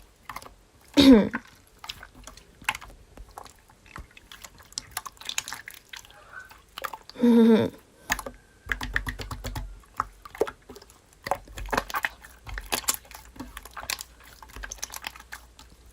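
Slime being squished and pressed by hand, making many small crackling clicks and wet pops. A short voice sound cuts in twice, about a second in and again around seven seconds in.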